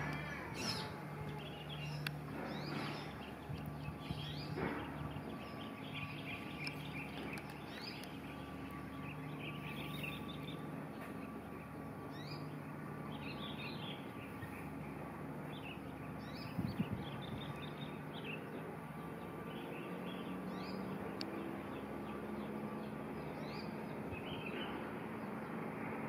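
Short, high bird chirps and calls scattered throughout, over a steady low hum and background noise, with one sharper click about two-thirds of the way through.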